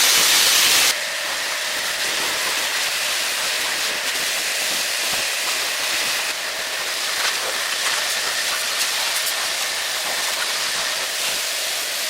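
Steady loud hiss, strongest in the upper range. About a second in it drops a step in level and brightness, then runs on evenly with a few faint clicks.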